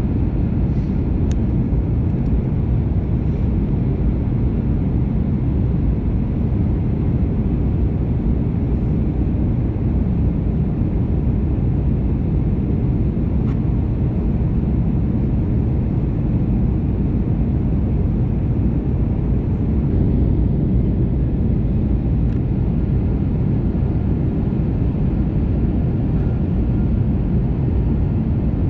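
Steady low roar of an Airbus A321neo cabin in flight, from the engines and the airflow over the fuselage, with a few faint ticks.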